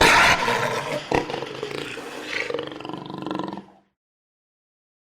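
Jaguar growling roar: one rough, grating call that is loudest at the start and trails off about four seconds in, with a sharp click a little after a second in.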